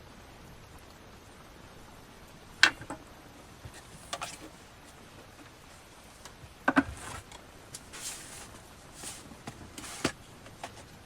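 Things being handled inside a van: four sharp knocks and clatters, the loudest about two and a half seconds in, with soft swishing or rustling in the second half over a steady hiss.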